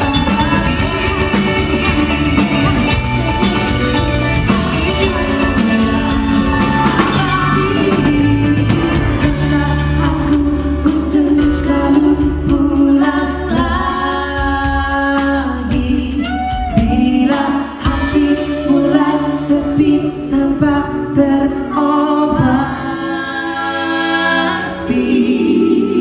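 A live band playing a song with a lead singer, the sung melody carried over bass and band accompaniment.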